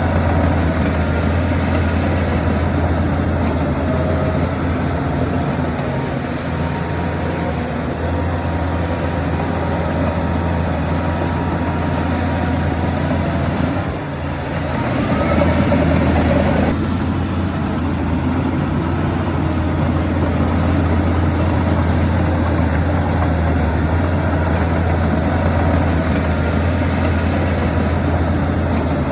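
Heavy diesel engines of earthmoving machinery running steadily with a deep drone. About fourteen seconds in, the sound briefly dips and then swells louder for a couple of seconds before settling back.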